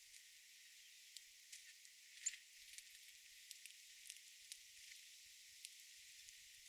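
Near silence: a faint, even high hiss with scattered faint ticks and one short high note a little over two seconds in.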